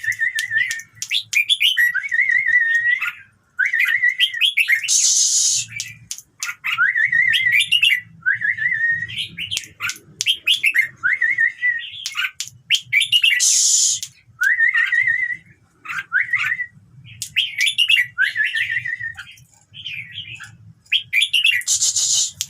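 Red-whiskered bulbul singing, a string of short, quick warbling phrases repeated again and again. Three brief hissing rushes break in, about every eight or nine seconds.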